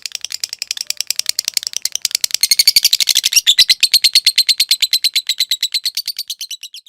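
Lovebird giving a long, fast chattering trill (the 'ngetik ngekek panjang' song): a rapid string of sharp high notes, about ten a second. It grows louder in the middle, then fades and stops at the very end.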